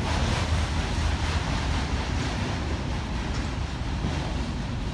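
Freight train's autorack cars rolling past, a steady rumble of wheels on rail.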